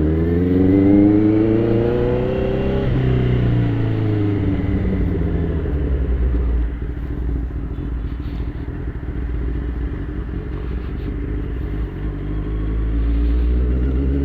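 Sport motorcycle engine accelerating as the bike pulls away, rising in pitch for about three seconds, then dropping as it changes up a gear and settling into a steady cruise with road and wind noise. It revs up again near the end.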